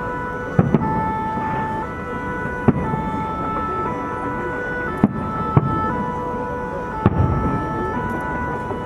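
Firework shells bursting with several sharp bangs at irregular intervals, over a music soundtrack of long held notes and chords.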